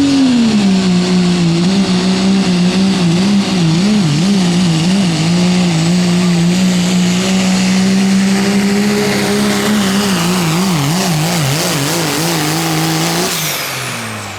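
Turbocharged diesel pickup engine at full throttle under load pulling a sled, held at high revs with its pitch wavering up and down in several stretches. About thirteen seconds in the throttle comes off: the engine note drops away and a high whistle falls off as the turbo spools down.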